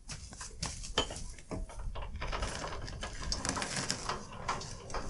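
Handling noises: scattered clicks and rustling, getting denser in the second half.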